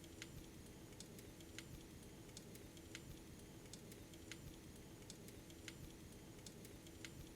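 Faint wood fire crackling, with small sharp pops at irregular intervals, about one or two a second, over a low steady rumble and hum.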